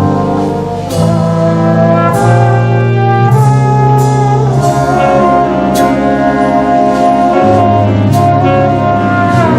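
A jazz band playing a ballad arrangement: trumpets, trombones and saxophones hold full chords over a moving bass line, with cymbal strokes scattered through.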